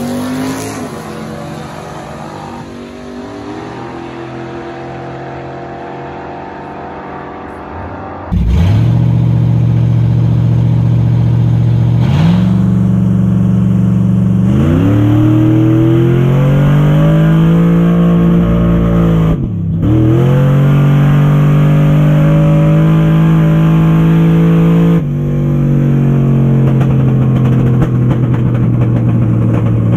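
Drag-race car engine at full throttle on a pass, very loud. It comes in suddenly about eight seconds in after a quieter engine sound, climbs in pitch in steps and holds high, with a brief drop and recovery near the middle that sounds like a gear change.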